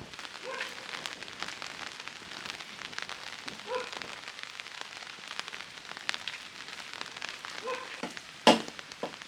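Rain pattering on a surface, a dense scatter of small ticks. Near the end, loud chopping blows begin, about two a second.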